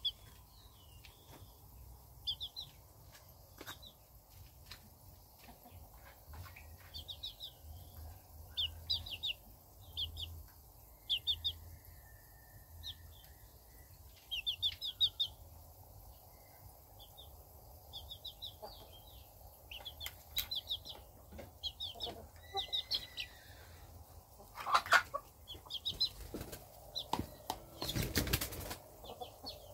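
A bird calling over and over, short runs of quick high chirps every second or two, over the faint steady hum of a pond aerator's air pump. A few loud knocks and rumbles come near the end.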